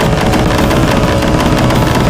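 Aprilia RSV4 V4 engine running hard at high revs on the move, a loud, rough, rapid-firing exhaust note.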